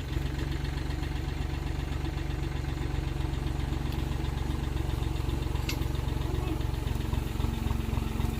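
Tractor engine running steadily at idle, just after being started.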